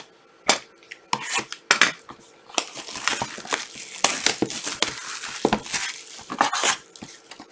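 Trading-card pack wrapping being crinkled and torn open by hand, a run of sharp crackling and rustling handling noises.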